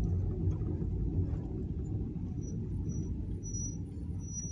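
Vehicle driving slowly, a steady low rumble of engine and tyres.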